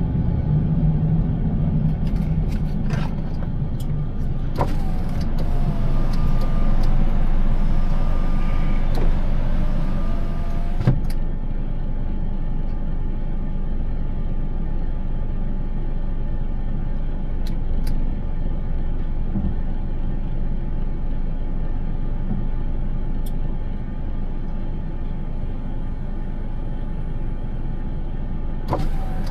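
Steady rumble of a car being driven, with a louder hiss from about five to eleven seconds in.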